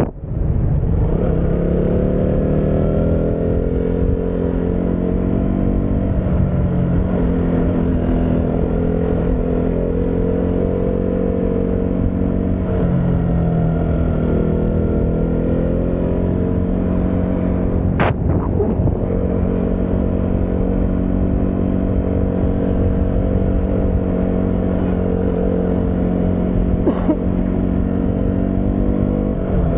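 Motorcycle engine running while riding, its note holding steady for long stretches and dipping and rising again about twelve seconds in as the throttle changes. A sharp click about eighteen seconds in.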